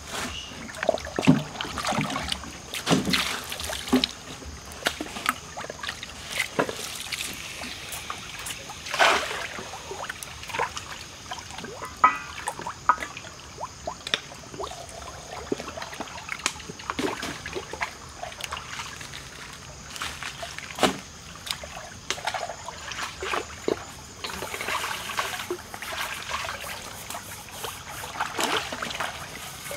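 Close-up eating sounds of a person chewing grilled chicken, with irregular wet smacks and clicks of the mouth.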